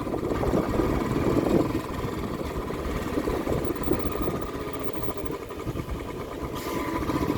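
A vehicle engine running steadily, with a brief hiss about six and a half seconds in.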